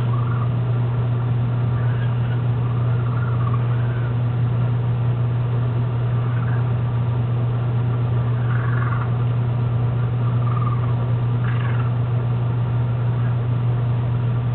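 A steady, unchanging low hum, with a few faint short chirps now and then.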